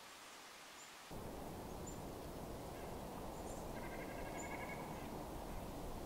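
Outdoor woodland ambience with a few faint, very short high bird chirps. About a second in, the background hiss and low rumble jump louder as the soundtrack switches from one recorder's microphone to the other's. Near the end a faint pitched call lasts about a second.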